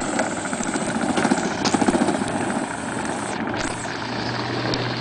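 Small vehicle driving forward: a steady running noise with a fast, even chatter, slightly louder in the first couple of seconds, and a low steady hum joining about two-thirds of the way through.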